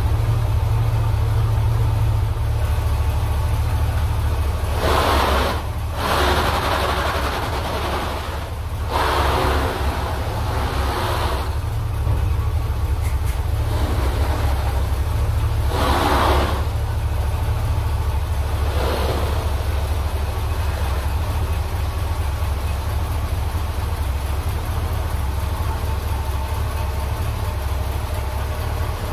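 A 1978 Cadillac Eldorado's big V8 idling, cold, soon after its first start following a rebuild. It has a steady low hum, and several brief louder rushes of sound come in the first twenty seconds or so.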